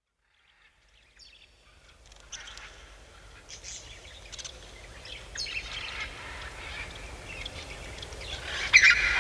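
Birds chirping and calling, fading in from silence over the first two seconds or so and growing louder, with the loudest calls near the end; a faint low rumble runs underneath.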